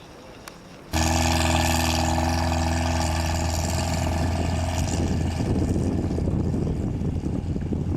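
Off-road vehicle engine running close by, coming in abruptly about a second in with a steady, even note; from about four seconds in it turns rougher and noisier.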